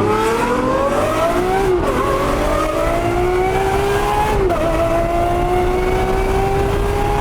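Lamborghini SVJ's V12 accelerating hard, its pitch climbing steadily and dropping sharply at two upshifts, about two and four and a half seconds in.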